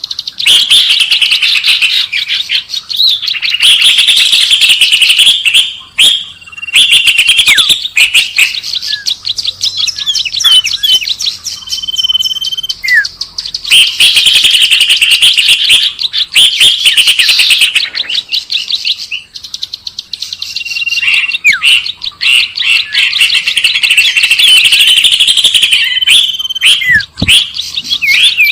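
Recorded small-bird lure calls: loud, rapid, continuous high chirping and twittering in long runs, broken by short sparser gaps with single whistled notes.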